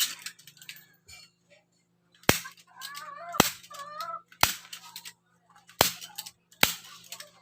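Hammer blows on a wooden bed frame: about six sharp strikes at uneven intervals of roughly a second.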